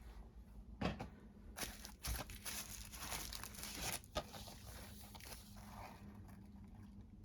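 Packaging being handled, crinkling and tearing for several seconds, with a few sharp clicks.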